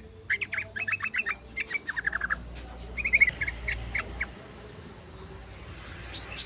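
Yellow-vented bulbul (trucukan) chattering in quick bursts of short, rapid notes, falling away about four seconds in.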